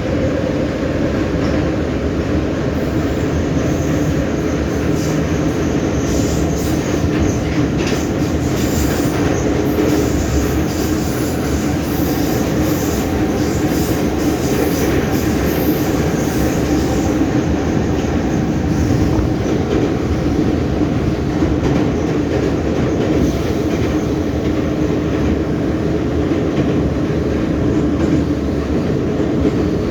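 Ema-502/Em-501 metro train running at speed between stations: a steady loud rumble of wheels and running gear, with a high wheel squeal from about three seconds in until about seventeen seconds in.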